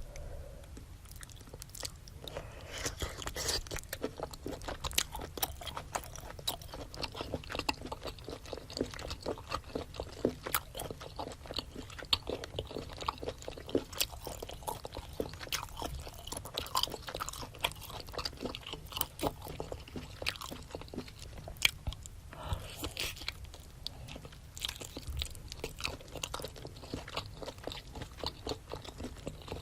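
A person chewing and biting spicy seafood boil close to the microphone: a dense run of crunchy chewing clicks, sparser for the first couple of seconds.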